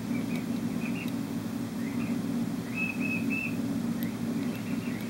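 A small bird chirping in short whistled notes and quick rising glides, a few notes a second, over a steady low hum.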